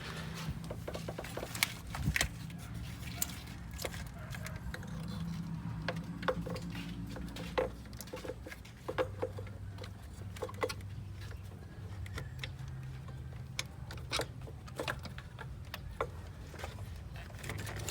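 Scattered metallic clicks and taps of tools and small parts being handled, over a steady low hum.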